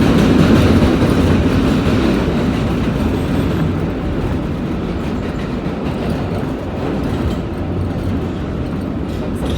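New York City Subway 5 train running between stations, heard from inside the car: a steady rumble and clatter of wheels on the rails, loudest in the first couple of seconds.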